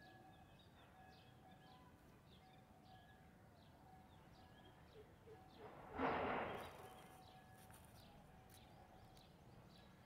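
Faint, repeated short high chirps of small birds over a quiet outdoor background, with a brief loud rushing noise about six seconds in.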